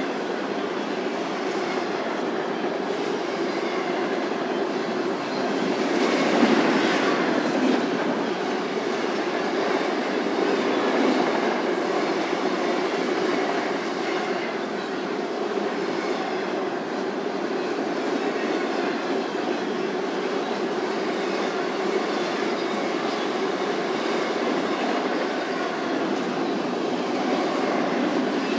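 Intermodal freight train rolling steadily past, its cars' wheels running on the rails.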